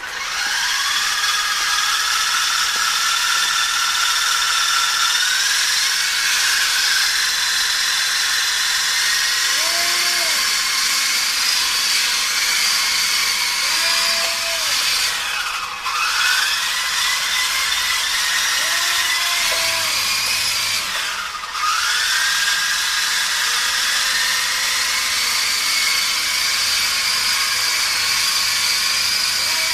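R/C model helicopter motor and rotor spinning up with a high-pitched whine that climbs in pitch over the first few seconds. About halfway through, and again some six seconds later, the motor briefly slows with a sharp drop in pitch, then spins back up.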